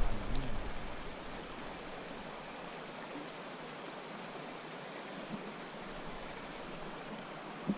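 Steady rush of flowing creek water. A low rumble in the first half second, like wind or handling on the microphone.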